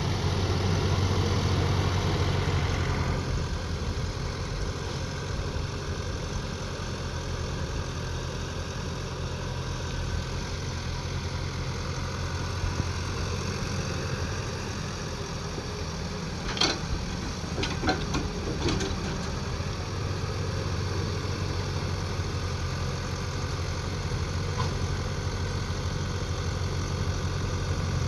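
Mini excavator engine running steadily, easing down a little about three seconds in, with a few sharp knocks a little past halfway.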